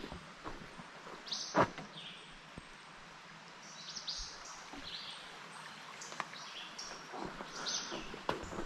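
Small wild birds chirping in the woods, many short high chirps scattered throughout, over a faint steady background hiss. A sharp knock stands out about one and a half seconds in.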